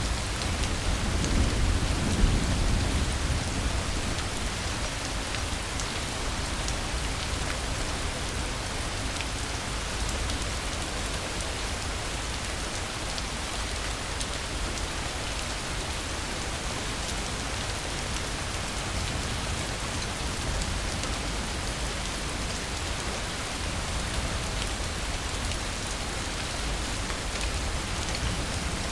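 Steady rain falling, with a low rumble of thunder swelling and fading away near the start.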